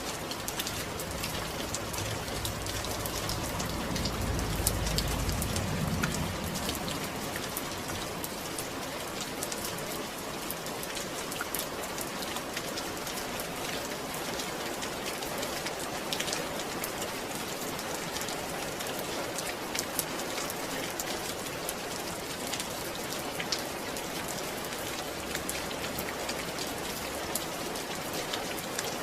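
Steady rain falling, with individual drops ticking through it. A low rumble swells about four to six seconds in.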